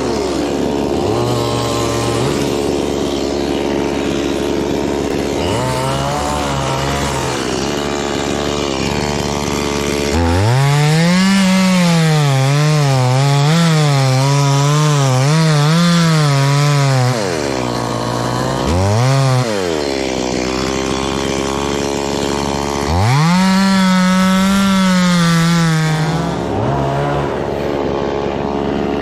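Two-stroke chainsaw idling, then run up to full speed for about seven seconds with its pitch bobbing under load as it cuts wood. After a short rev it cuts again for about three seconds near the end, then drops back to idle.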